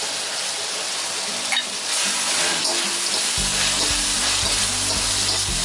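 Shrimp and chicken sizzling steadily in a hot wok as a metal spatula stirs them. The sizzle grows a little louder about two seconds in.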